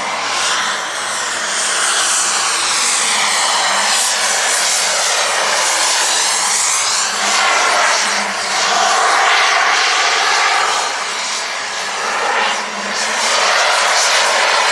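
Radio-controlled model aircraft engines, heard as a loud rushing engine noise that swells and fades as the models make passes.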